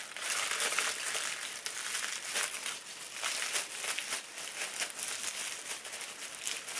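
Aluminium foil crinkling and crackling continuously as it is folded and pressed around sections of hair.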